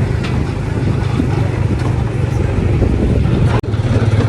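Tomorrowland Speedway ride car's small gasoline engine running steadily under way, a continuous low drone. It breaks off for an instant about three and a half seconds in, then carries on.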